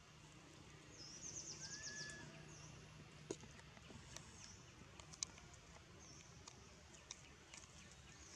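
Faint outdoor ambience with small birds chirping: a quick high trill about a second in and a short whistled note just after. A few sharp clicks come through the middle.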